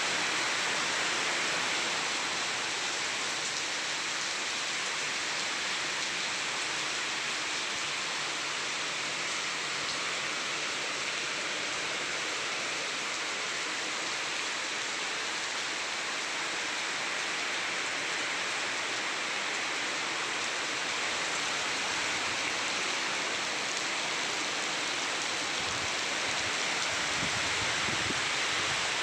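Heavy rain falling steadily, an even hiss with no let-up, with a few low rumbles near the end.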